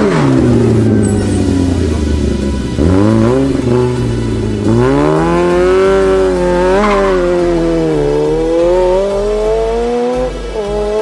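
Rally car engine at full throttle, its pitch climbing and then dropping sharply several times as the driver shifts gear and lifts off.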